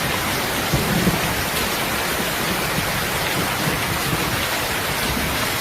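Steady heavy rain falling on a surface, an even hiss with low rumbling of thunder swelling underneath.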